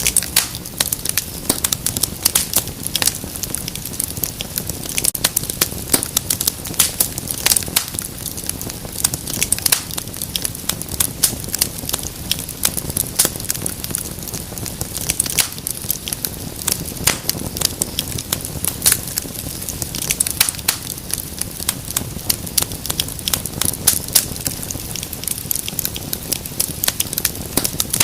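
Wood fire crackling steadily: dense, irregular sharp pops and snaps over a soft low hiss of burning.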